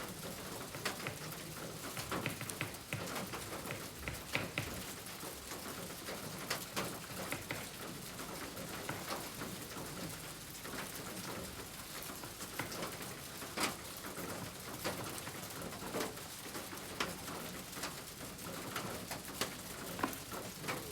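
A bird cooing over a steady hiss with many short, irregular light ticks.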